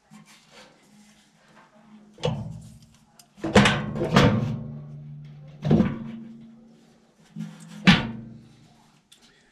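Metal struck five times at uneven intervals, each sharp clank leaving a low ringing hum as the metal resonates.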